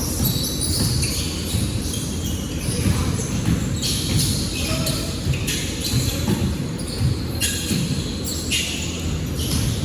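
Basketball bouncing repeatedly on a gym court during a game, with other court noise in the background.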